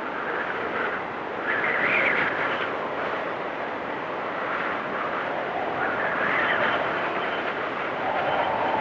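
Blizzard wind blowing through trees in a steady rush, swelling in gusts about a second and a half in and again around six seconds in.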